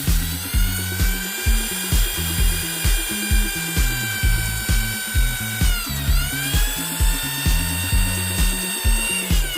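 A small electric power tool's motor whining at high speed: it spins up at the start, sags briefly about six seconds in as if under load, then recovers and winds down near the end. Background dance music with a steady kick-drum beat plays throughout.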